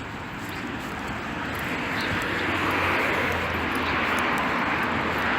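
A vehicle passing in the rain. Its steady hiss swells louder from about a second in and then holds, over a low engine hum.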